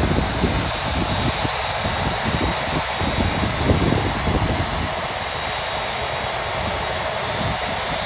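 Airbus A380's jet engines at takeoff power: a loud, continuous roar with a crackling low rumble, easing slightly about five seconds in.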